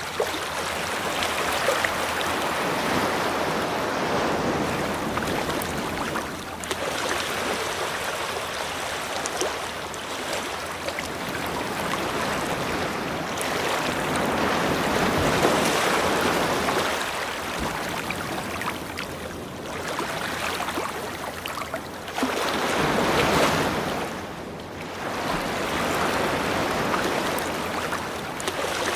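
Surf on a beach: a continuous rush of waves washing in and drawing back, swelling and easing every few seconds, with a louder wave about three-quarters of the way through.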